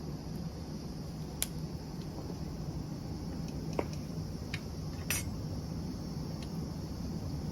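Swedish torch log fire burning, with a steady low rumble and a few sharp crackles and pops.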